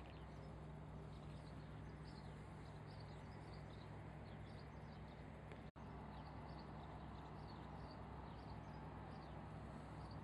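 Small birds chirping, many short high chirps one after another, over a steady low hum.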